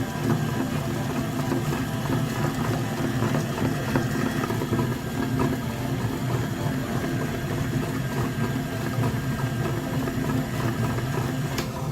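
A mini tractor's engine running steadily at an even, idle-like speed.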